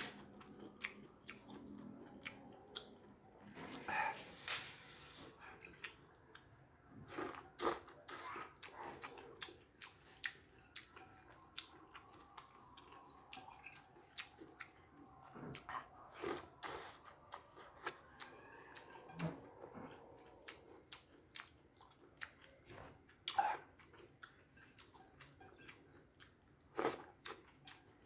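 Faint close-up chewing of soft noodles, with many short wet mouth clicks scattered through and a few louder bites.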